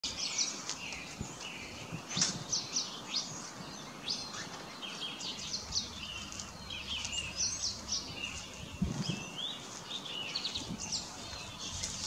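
Several small garden birds chirping and twittering, a steady stream of short, quick, high-pitched calls that often overlap.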